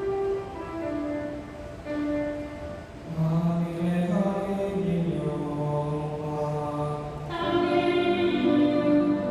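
Choir singing in sustained notes. Lower voices come in about three seconds in, and the singing grows fuller and louder about seven seconds in.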